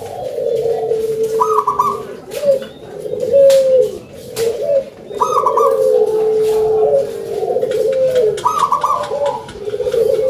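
Zebra doves (perkutut) cooing loudly in overlapping phrases, with a short higher trilled phrase coming back about every three seconds.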